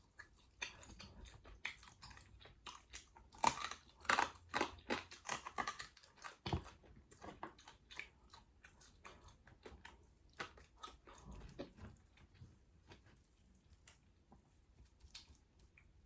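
A person chewing and biting into chicken with its sauce: irregular wet mouth clicks, busiest and loudest in the first half.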